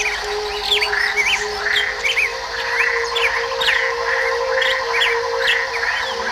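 Songbirds chirping and singing: many quick high chirps, with a short note repeated about twice a second from about a second in. Steady low tones sit underneath.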